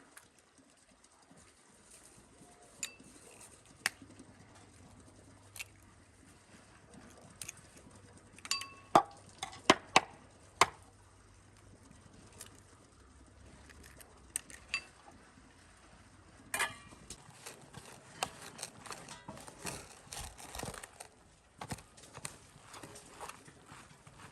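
Scattered light knocks and clinks, with a cluster of four or five louder ringing clinks about nine to eleven seconds in. Busier small crackling and rustling sounds follow over the last third.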